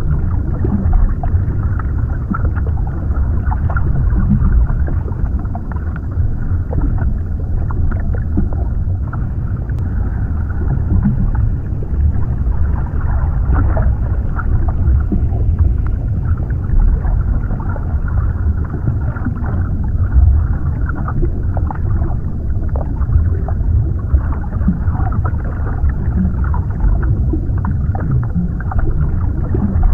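Underwater ambience: a steady, deep muffled rumble of water with scattered faint bubbling ticks and gurgles.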